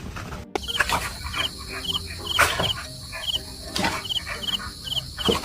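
Short high-pitched animal chirps repeating about two to three times a second, with scattered knocks and clatter in between.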